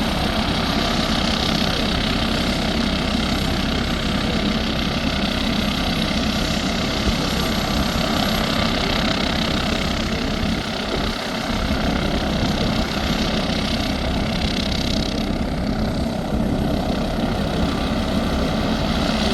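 MD 902 Explorer helicopter's twin turboshaft engines and rotor running steadily, with a constant high turbine whine over the engine noise.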